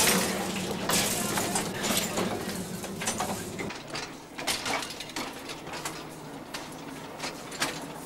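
Small narrow-gauge slate-mine tour train rolling along: wheels and carriages clicking and clinking on the track, over a low hum that drops away about three and a half seconds in.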